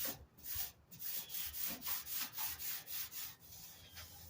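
Shop rag rubbed back and forth over the rusty steel of a vintage Craftsman toolbox, spreading on a thin boiled linseed oil and mineral spirits coat; faint, hissy wiping strokes, a couple a second.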